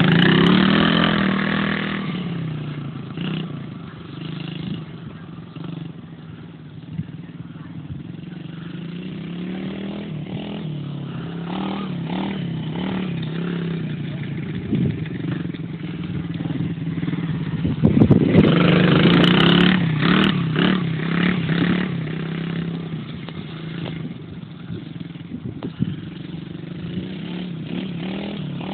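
Small dirt bike engine running as it is ridden. Its note drops off in the first couple of seconds, it grows fainter for a while, then it swells to its loudest around eighteen to twenty seconds in before easing again.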